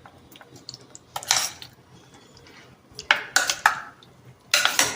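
Kitchen utensils clattering and scraping against dishes in three short bursts: about a second in, around three seconds, and near the end.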